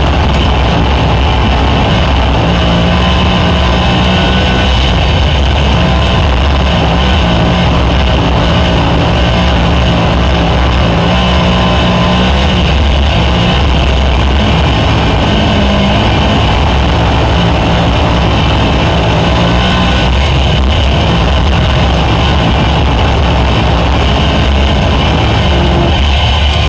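Dirt-track race car engine running loud and steady on track during hot laps.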